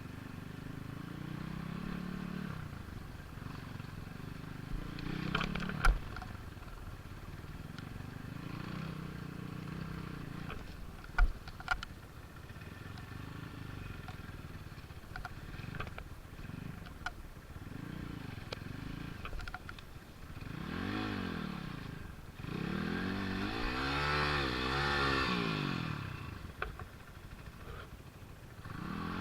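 Vehicle engine revving up and down over and over, with a few sharp knocks and clatter, two of them loud, about a fifth and two-fifths of the way through.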